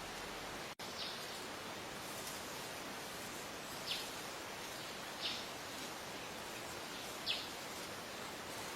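A wild bird gives four short, quick chirps, each sweeping down in pitch, a second or two apart, over a steady outdoor hiss; the sound drops out for an instant just before the first chirp.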